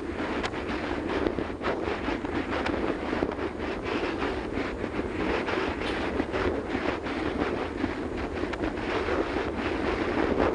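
Wind rushing over the microphone of a motorcycle moving at highway speed, with constant gusty buffeting over the bike's running and road noise.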